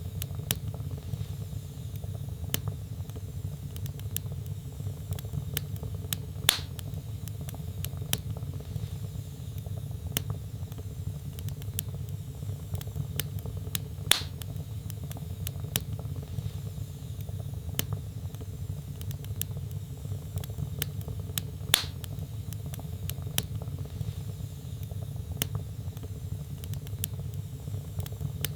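Wood logs burning in a fireplace: a steady low rumble of flame with many small crackles, and three louder pops evenly spaced through the stretch.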